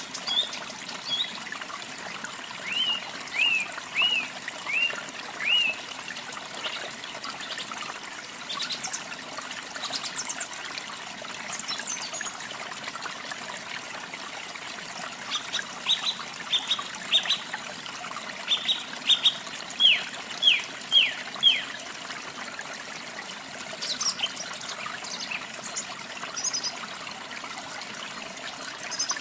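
Steady trickle of running water with a bird calling over it: a run of about six short downward-slurred whistled notes a few seconds in, then a longer run of about a dozen around the middle, with thin high chips in between and near the end.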